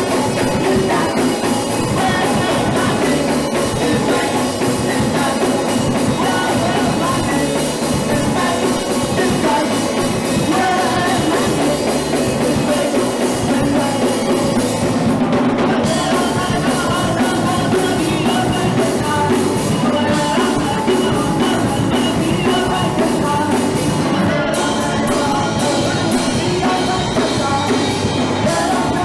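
Live punk rock band playing loud and without a break: drum kit, amplified instruments and a singer.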